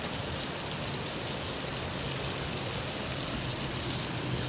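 Trout frying in a hot pan with a steady sizzle.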